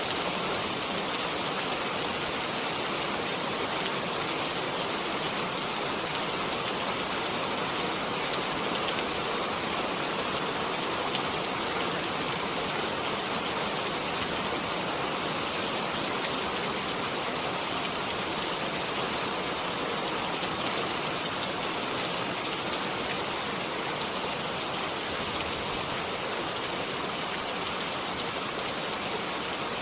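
Steady rainfall: an even hiss of rain, with fine drops pattering on a surface.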